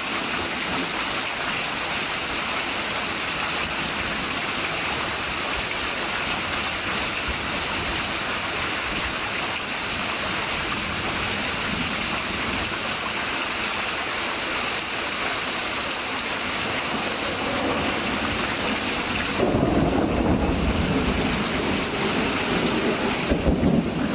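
Heavy rain pouring down steadily in a thunderstorm. Near the end a louder, deeper rumble comes in over the rain.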